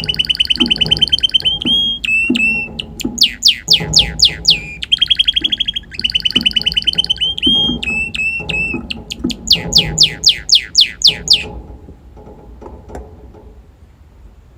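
Red factor canary singing: long rolling trills broken by runs of fast, repeated downward sweeps, phrase after phrase. The song stops about three-quarters of the way through.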